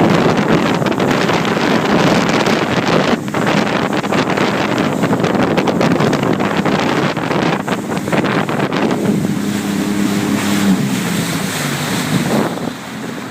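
Jet ski running under way, its engine note mixed with rushing water and heavy wind buffeting the microphone; a steady engine hum comes through more clearly in the later part.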